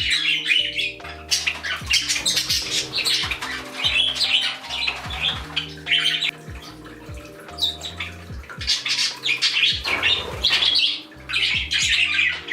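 Pet parrots chattering and squawking in rapid high calls over light background music with a steady repeating bass line.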